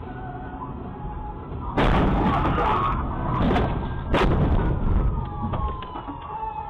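Two loud bangs about two and a half seconds apart, each followed by about a second of clattering noise, with a faint falling tone between them.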